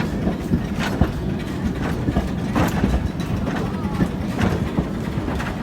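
Mary Ann steam train running along its track: a steady low rumble broken by irregular clicks and knocks from the wheels and carriages, with people's voices in the background.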